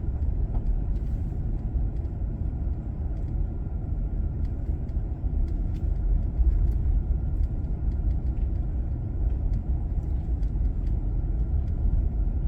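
Steady low rumble of a van being driven, engine and road noise heard from inside the cabin.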